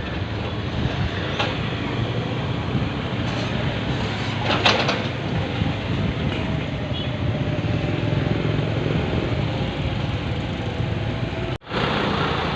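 Engine of a mini excavator or dump truck running steadily, with sharp metallic clanks about a second and a half in and again near five seconds. The sound drops out for an instant near the end.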